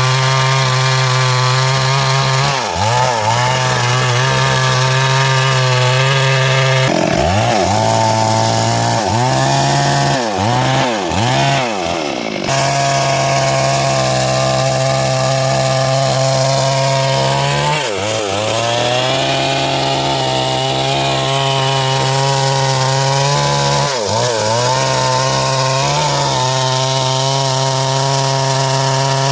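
Stihl MS 382 two-stroke chainsaw running at high revs while cutting wood. The engine pitch dips and recovers several times as the chain is loaded in the cut.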